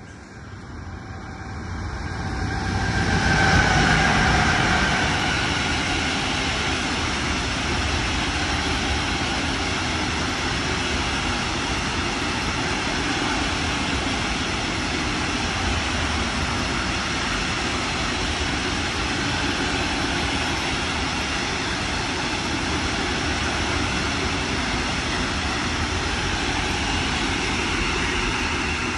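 Freight train of hopper wagons rolling past on the line, a steady rumble of wheels on rails. The sound builds over the first few seconds to its loudest point with a falling whine, then holds even as the wagons go by.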